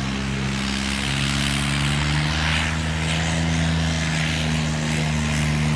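Tractor diesel engine running steadily at high revs, its pitch creeping slightly upward.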